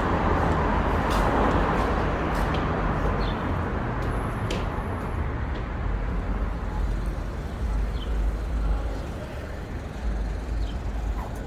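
Steady rumble of passing traffic, louder over the first few seconds and easing off toward the end. A few faint clicks and a brief high thin whine sound near the middle.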